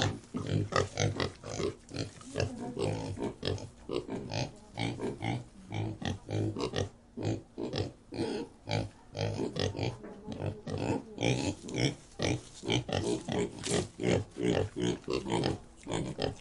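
Livestock calling: many short, low calls in quick succession, overlapping one another throughout.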